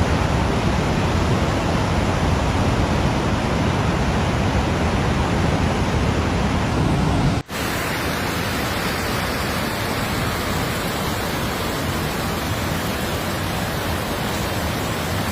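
Fast-moving floodwater rushing, a steady noise across all pitches that drops out briefly about seven and a half seconds in and then resumes.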